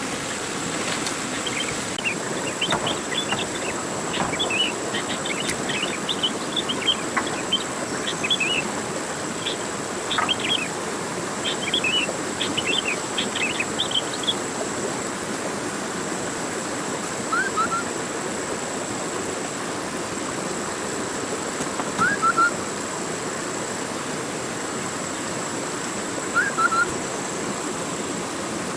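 Rainforest ambience: birds chirping rapidly and repeatedly during the first half, then giving short paired calls every few seconds, over a steady background hiss and a constant high-pitched tone.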